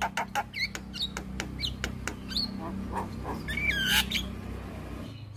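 Javan mynas calling: a rapid run of sharp clicks and whistled notes that slide up and down, thinning out near the end, over a steady low hum.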